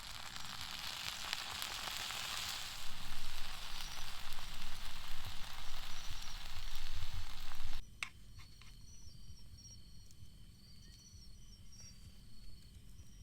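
Food sizzling hard over a campfire grill, growing louder about three seconds in and cutting off abruptly about eight seconds in; after that, faint steady chirping of crickets.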